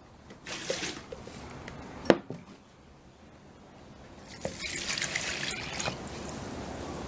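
Water splashing and running in a sink as a plastic salad spinner bowl is emptied and rinsed out. There is a short burst of splashing, then a sharp knock of the plastic bowl about two seconds in. From about four seconds on, a louder stretch of running water follows.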